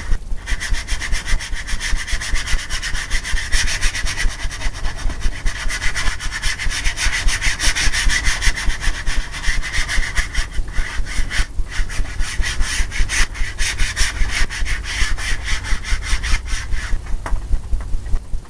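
A 2-inch bristle brush scrubbing liquid clear into a canvas in rapid back-and-forth strokes, several a second, a dry scratchy rasp. It stops briefly twice, near the middle and near the end.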